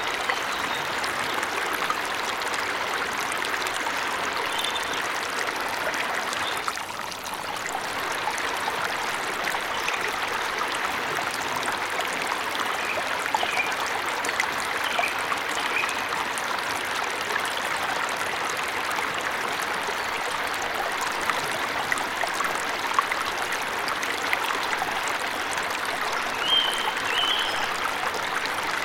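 Waterfall in a forest, a steady rush of falling water, with a few short, high bird chirps now and then.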